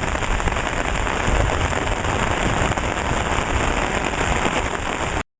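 Heavy rain falling steadily, a dense even hiss with a low rumble beneath it; it cuts off abruptly near the end.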